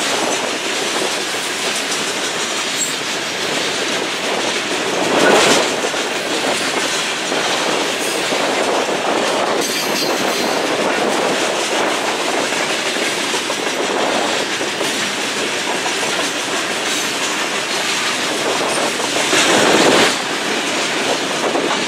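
Loaded Herzog hopper cars rolling past, their steel wheels running steadily on the rails, with wind on the microphone. The sound swells louder twice, about five seconds in and near the end.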